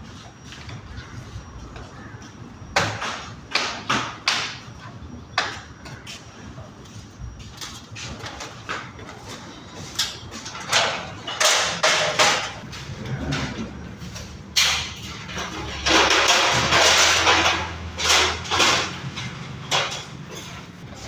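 Irregular knocks and clatter of parts and tools being handled during installation work, with a louder scraping or rushing noise lasting about a second and a half around sixteen seconds in.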